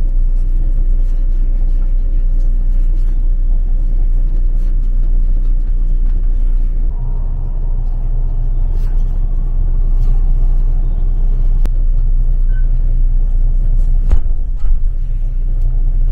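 Steady low rumble of a train carriage's interior noise, growing a little deeper and stronger about seven seconds in, with one sharp knock near the end.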